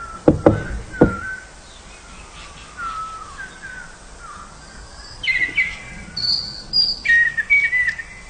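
Three sharp knocks in the first second, then birds chirping in short gliding calls, which grow brighter and more frequent from about five seconds in.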